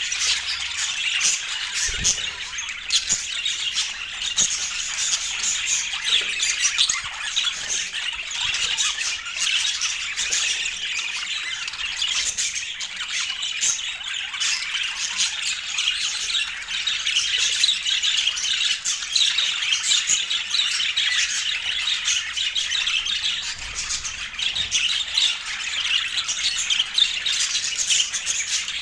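Budgerigars chattering and squawking without pause, a dense run of overlapping chirps and warbles.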